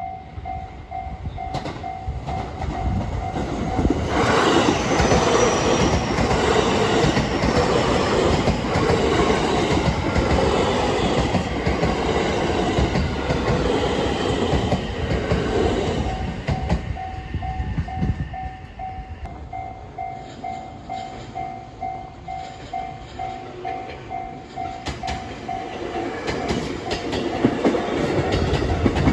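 A train passes over a Japanese level crossing, its wheels clacking over the rail joints in a clickety-clack rhythm. It grows loud about four seconds in. The crossing's warning bell dings in a steady repeating beat at the start and again in the second half.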